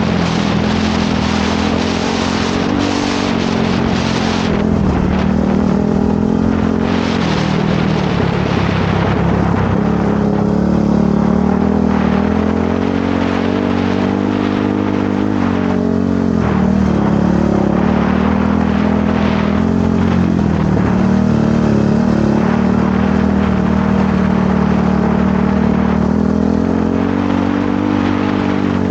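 Motorcycle engine running while riding, its revs rising and falling gently and dipping briefly a few times, with a louder hiss in the first few seconds.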